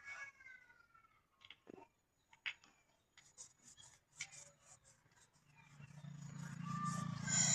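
Scattered light clicks and taps, then a low steady hum that grows louder over the last two seconds.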